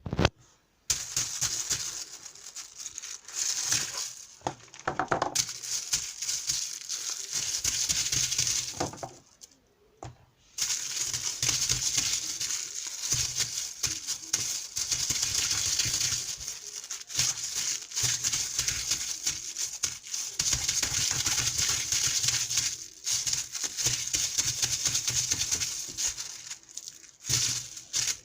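Water making a crackly, hissing sound in long stretches, broken by brief pauses about four and ten seconds in.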